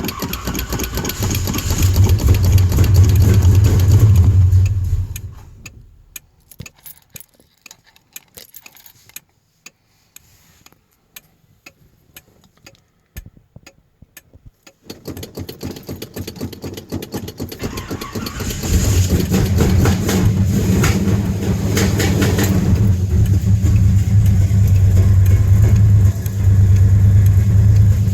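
Car engine, cold after sitting for 16 days, running with its revs pumped, then dying about five seconds in. After a quiet pause with a few faint clicks it is cranked again, catches and runs loudly with the gas pedal pumped.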